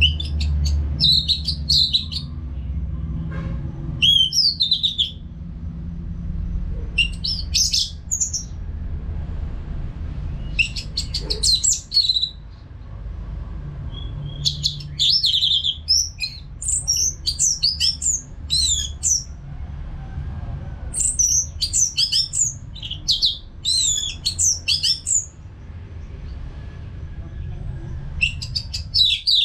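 Orange-headed thrush singing: bursts of rapid, varied whistled phrases with short pauses between them, busiest in the middle, over a steady low hum.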